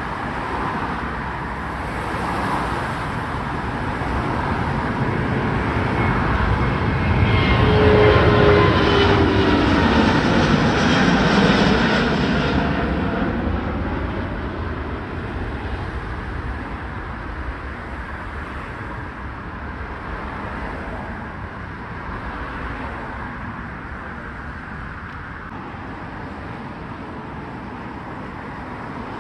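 Jet airliner taking off and passing close by at takeoff power: the engine roar swells to a peak about eight to twelve seconds in, with whining engine tones falling in pitch as it goes past, then fades to a distant rumble.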